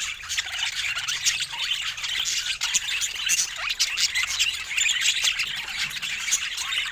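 Budgerigars chattering and squawking: a continuous run of quick, overlapping chirps and warbles.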